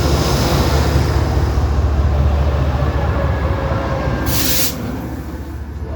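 Train running with a steady low rumble. About four seconds in comes a short, sharp hiss.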